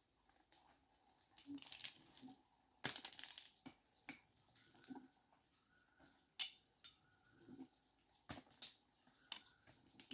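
Faint, irregular clicks and light clatter of small hard objects being handled, with a few brief scrapes.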